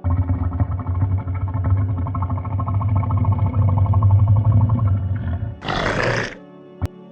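A large animal's long, low, pulsing growl lasting about five and a half seconds, then a short hissing burst and a click, over background music.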